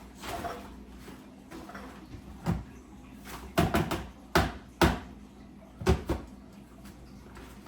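Kitchen clean-up clatter: about half a dozen sharp knocks and bangs, the loudest grouped in the middle few seconds.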